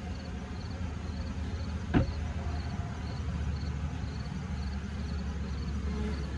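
Steady low hum of honeybees swarming over an opened horizontal hive as its frames are worked, with a single sharp knock about two seconds in.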